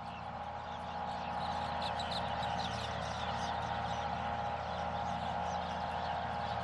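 Many small birds chirping in quick, overlapping calls over a steady drone.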